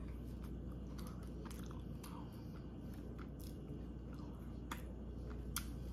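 Close-up biting and chewing of a chocolate-wafer ice cream sandwich: soft wet mouth sounds with scattered small clicks and crunches.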